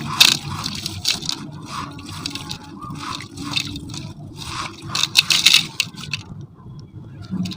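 Semi-gritty sand cement crumbling and scraping against a silver metal container in repeated gritty bursts, with a short lull near the end.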